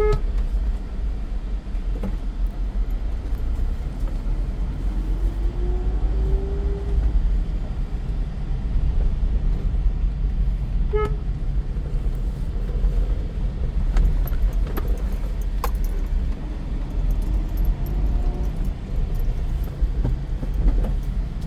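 Maruti Suzuki S-Presso on the move: steady road and tyre noise with a low rumble. A car horn toots briefly at the start and again about eleven seconds in.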